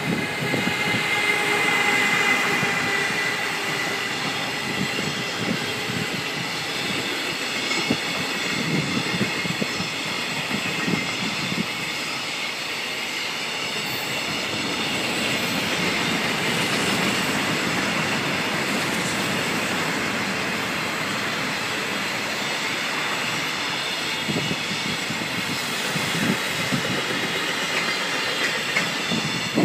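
Container freight train passing close by at speed: a continuous rumble of wheels on rail, with a thin high wheel squeal in the first few seconds and scattered clacks of wheels over rail joints.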